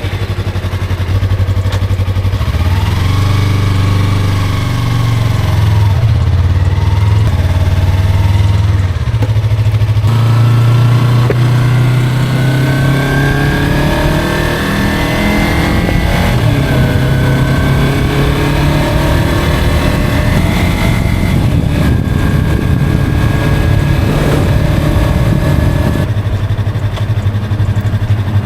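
Motorcycle engine starting and then running under way, its pitch rising and falling several times as it accelerates and eases off.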